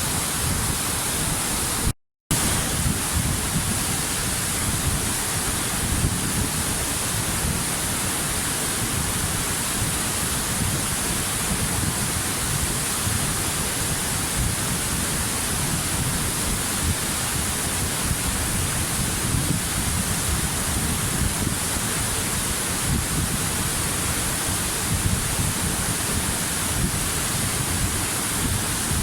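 Waterfall: a steady, even rush of falling water, cut off by a brief dropout of a fraction of a second about two seconds in.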